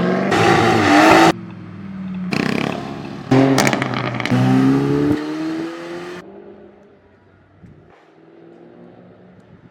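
Sports car engines accelerating hard, each rising sharply in pitch as it revs up, in several short loud stretches that break off abruptly. After about six seconds the engine sound drops away to a fainter, fading run.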